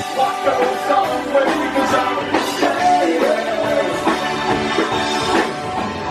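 Live rock band playing a song: electric guitars and drums, with a melody bending in pitch over a steady beat.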